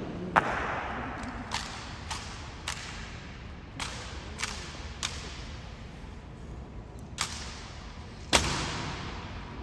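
Sharp slaps and knocks from a navy honor guard's rifle drill as the rifles are struck and caught. There are about nine separate strikes at uneven intervals, each echoing in a large hall, and the loudest comes near the end.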